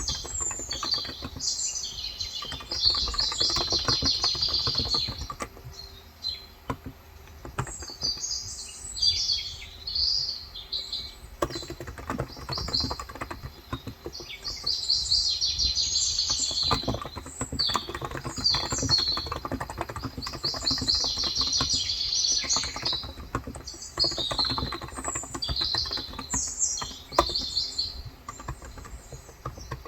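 Typing on a Cox Endeavor electro-capacitive keyboard with 35 g switches, a steady run of soft key clicks, while small birds chirp in rapid trills in bouts throughout, heard through a phone's microphone.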